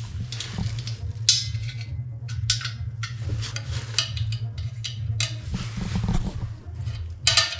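A magnet clicking several times against stainless steel as it is touched to the metal and pulled away, over a steady low hum. Each click is sharp and separate, with a few seconds between some of them.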